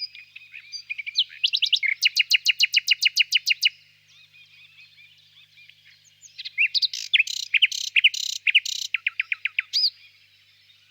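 Nightingale singing two loud phrases. The first is a fast run of evenly repeated notes. The second, beginning about halfway through, has rasping notes and then a quick series of clear down-slurred whistles. Faint chirping of other birds runs underneath.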